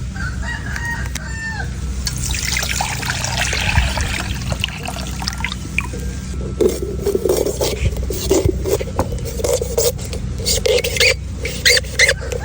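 Coconut being opened with a knife: a few seconds of liquid pouring, then a quick run of sharp knife chops into the nut, several strokes a second.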